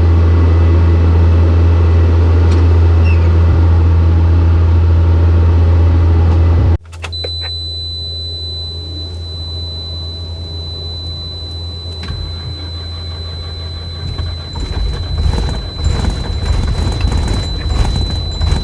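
Heavy vehicle engine running steadily with a loud low drone. About seven seconds in it cuts off abruptly to a quieter engine rumble with a thin steady high whine, which grows louder and rougher near the end.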